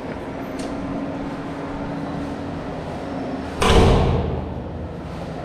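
A door bangs with a loud thud about three and a half seconds in, over a steady background rush.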